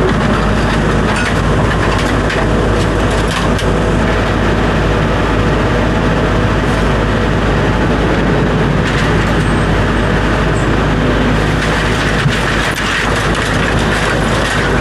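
A vehicle running: steady loud noise with a constant low hum and frequent small clicks and rattles.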